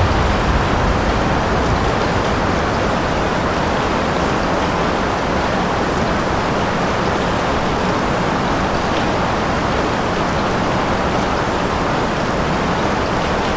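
Steady heavy rain, an even wash of falling drops and splatter without a break.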